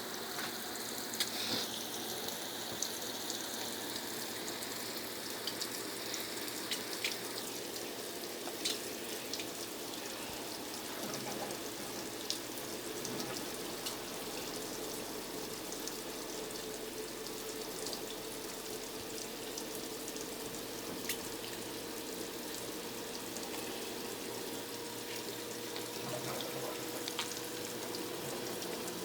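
Brastemp Ative 11 kg top-loading washing machine filling with water for the rinse: a steady trickle and splash into the tub with scattered small drips. The fill is slow because the household water supply valve is not fully open.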